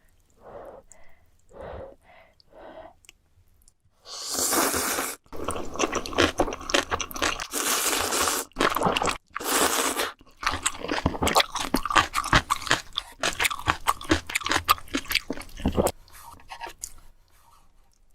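Close-miked chewing of food: a few soft chews at first, then loud crunching from about four seconds in, with short pauses, stopping near the end.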